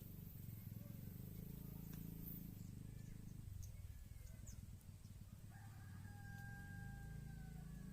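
A rooster crowing faintly, ending in one long held note, over a steady low rumble.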